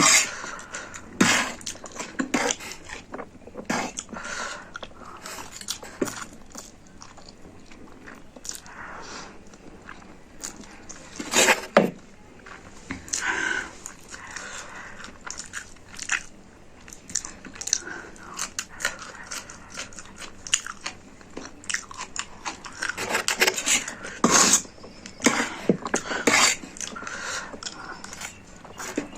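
Close-up eating sounds of someone eating spicy instant noodles: chewing, with irregular wet clicks and smacks of the mouth coming every fraction of a second to a few seconds apart.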